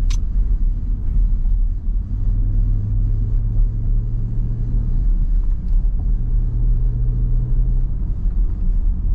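An SRT Jeep's V8 engine running low and steady with road rumble while creeping in traffic. The steady low drone breaks briefly about five seconds in.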